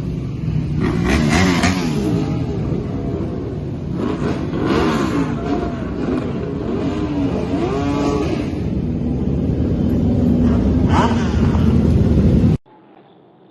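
MotoGP racing motorcycles revving as they ride past, their engine pitch rising and falling again and again over a heavy roar. Near the end the sound cuts off abruptly to a much quieter, muffled background.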